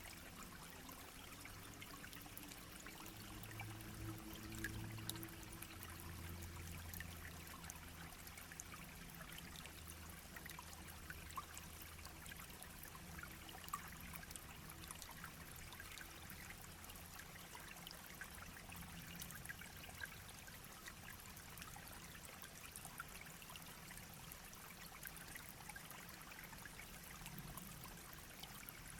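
A small shallow stream babbling steadily over stones, with a faint low hum underneath that fades out after about twelve seconds.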